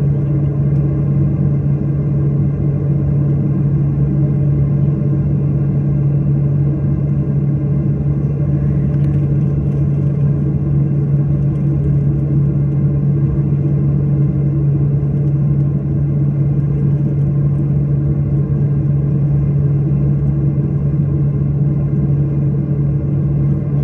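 Steady drone of a jet airliner's engines heard inside the passenger cabin, a deep hum with faint high whining tones above it.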